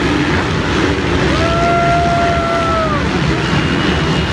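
Motocross bike engines running amid dense wind-like noise, with a held tone sounding from about a second and a half in to about three seconds.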